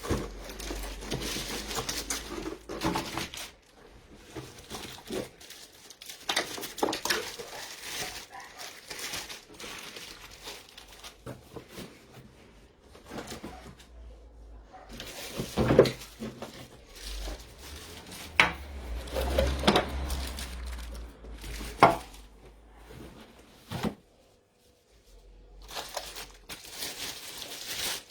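Objects being handled by hand: crinkling and rustling with irregular knocks and clattering, the loudest knocks about sixteen seconds in and again around twenty seconds.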